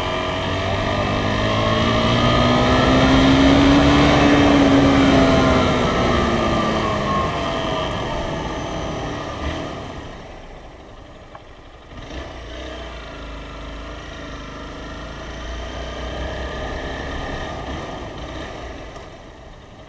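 Motorcycle engine revving up and easing off again, its pitch climbing for about four seconds and then falling, under road and wind noise. About halfway through it settles to quieter, steadier running.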